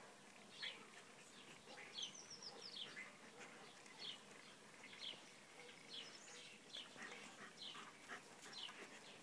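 Faint birdsong in the garden: short, high chirps that fall in pitch, one every second or so, with a quick run of them about two seconds in.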